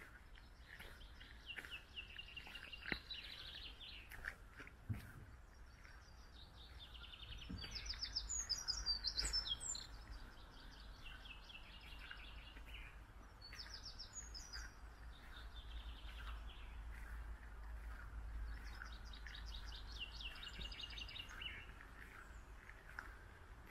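Songbirds singing: several phrases of fast, rapidly repeated notes that step down in pitch over two or three seconds each, over a steady low rumble.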